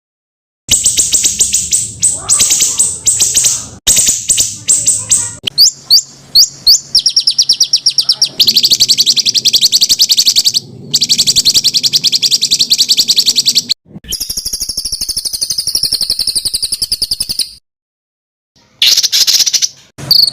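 Songbirds singing dense, harsh phrases of rapid-fire repeated notes and trills, the kind of 'tembakan' kept birds are trained to copy. The phrases change every few seconds, with a brief silence near the start and another about three-quarters through.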